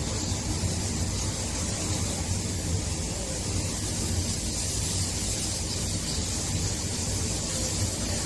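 Strong tornado-force wind blowing steadily, a deep low rumble under a hiss, with a faint whistle rising and falling.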